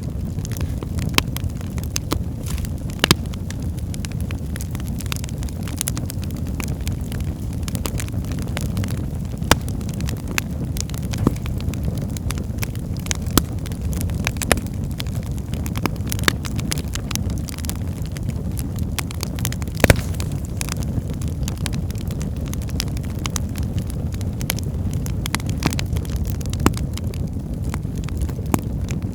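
Wood fire burning in a fireplace: a steady low rumble of flames with frequent irregular crackles and sharp pops from the burning logs, a few pops louder than the rest.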